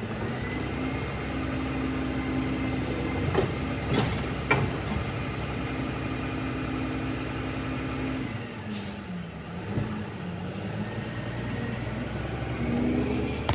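Garbage truck's diesel engine running steadily at raised speed while the truck picks up cans, with a few sharp knocks a few seconds in. About eight seconds in the engine note sags, a short hiss sounds, and the engine picks up again.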